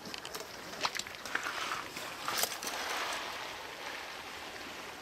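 Footsteps crunching and crackling through undergrowth along a creek bank, with a few sharp snaps, over the faint steady rush of the creek.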